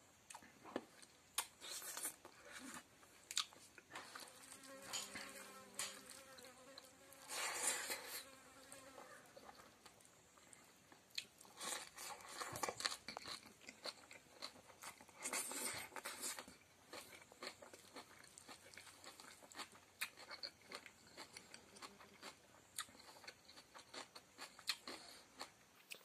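Close-up chewing and mouth smacking of a person eating rice and fried chicken intestine by hand, with many irregular small clicks and a few louder, crunchier bursts of chewing.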